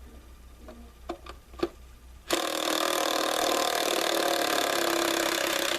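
A few light clicks, then a power drill runs steadily for about three and a half seconds and stops abruptly, most likely driving a bolt or screw into wood.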